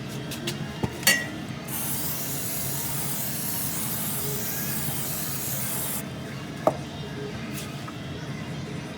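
A few sharp clicks, then a steady spraying hiss lasting about four seconds that cuts off suddenly, followed by one more click.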